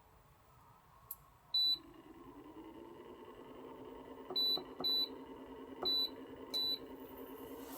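An electronic appliance beeping five times at button presses, with a steady electric hum that starts along with the first beep as it switches on.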